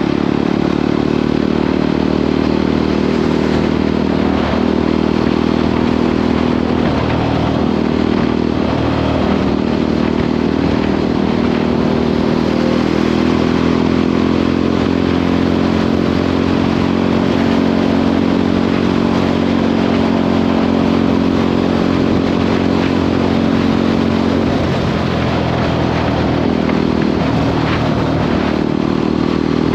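Jawa 42 motorcycle's single-cylinder engine running steadily at highway cruising speed, its pitch drifting only slightly up and down.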